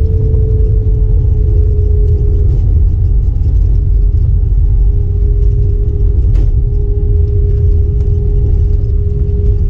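Loud, steady low rumble of an Airbus A320 cabin, with a constant mid-pitched whine over it.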